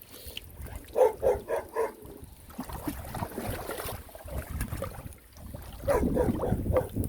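A dog barking: four quick barks in a row about a second in, then another run of barks near the end.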